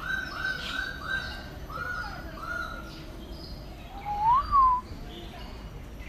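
A bird calling with a laughing call: a run of about six short, even notes, then a single louder note that rises and falls about four seconds in.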